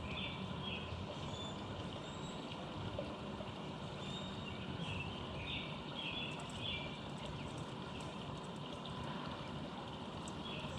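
Steady low rumble of city traffic, with a songbird singing a phrase of short repeated notes at the start and again about halfway through.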